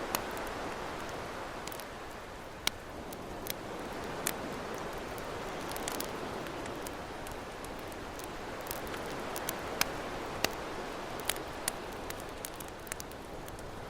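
Campfire crackling, with sharp pops scattered irregularly over a steady wash of ocean waves that swells and eases gently.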